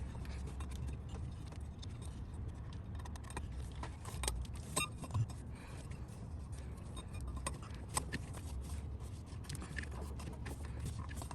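Scattered light metallic clicks and clinks of hand tools and engine parts being handled, over a steady low hum.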